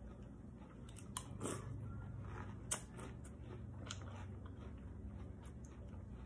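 Close-up chewing of cereal in milk, with a metal spoon clicking against the bowl a few times as it scoops; one sharp click about midway is the loudest sound.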